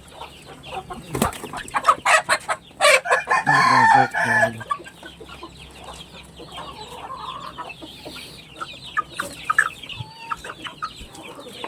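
Backyard chickens clucking while they feed, with many short taps through it and one loud, drawn-out bird call about three seconds in.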